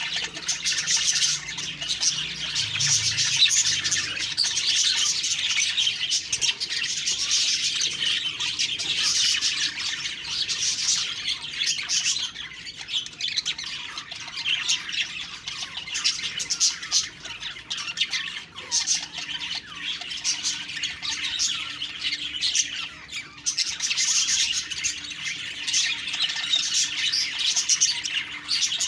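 Budgerigars chattering and warbling continuously, a dense stream of rapid chirps, squawks and whistles with no pauses.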